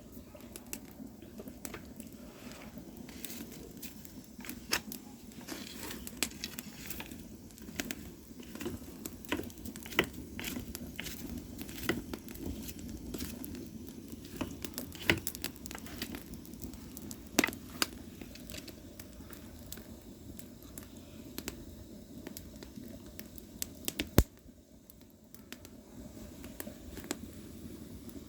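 Firewood burning, with irregular sharp crackles and pops over a steady low rush of the fire. The loudest pop comes near the end.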